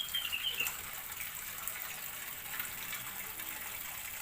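Steady rushing of running water, with a brief burst of high twittering bird chirps in the first second.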